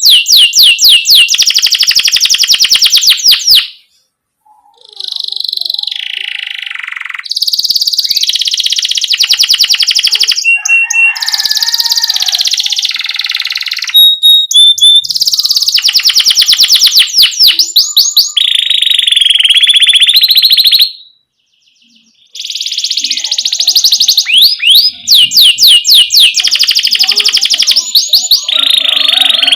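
Domestic canary singing a fast song of rapid rolling trills and rising "cuit cuit" chirps, all high-pitched. It breaks off for about a second twice.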